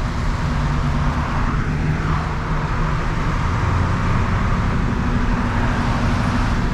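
Ford 7.3 IDI V8 diesel engine running steadily at highway cruise, with a constant low drone under road and tyre noise, heard from inside the cab.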